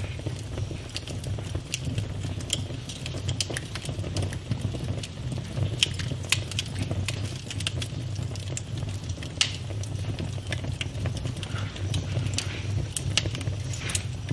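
Campfire burning, wood crackling and popping in irregular sharp snaps over a steady low rumble of flame.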